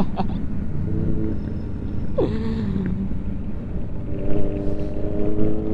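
KTM Duke 390's single-cylinder engine running at a steady pace, heavily mixed with wind noise on the helmet microphone, with a short falling tone about two seconds in.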